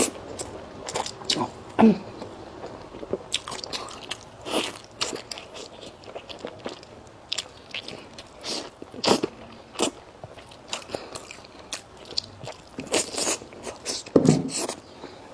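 A person biting and chewing food close to the microphone, with irregular crunchy clicks and wet mouth sounds.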